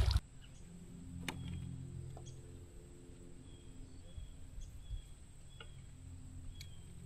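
Quiet open-air ambience: faint, short bird chirps several times over a low steady hum, with a few light clicks.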